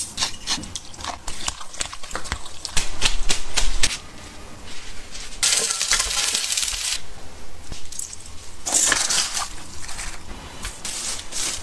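Kitchen items being handled: a run of light clicks and taps, with two short stretches of noisy rustling about halfway through and again later.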